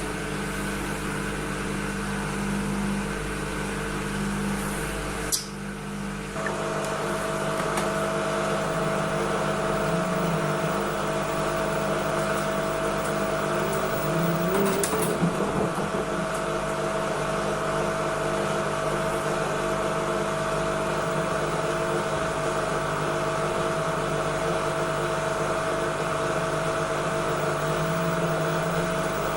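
Washing machine running with a steady mechanical hum. About five seconds in there is a click and a brief dip, then a steady higher whine sets in and holds, with a few short rising and falling tones over it.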